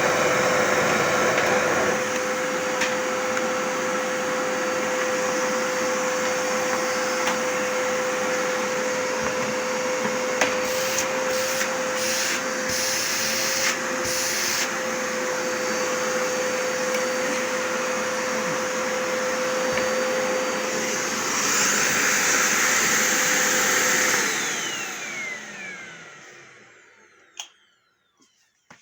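Zanussi 2100 W vacuum cleaner running on a test after reassembly, a steady motor whine that swells briefly near the start and again near the end. It is then switched off and the motor spins down with a falling whine over about four seconds. It runs properly: everything works.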